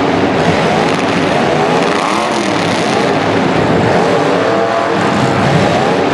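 Several racing engines running at once, their pitches rising and falling over one another as they rev and pass.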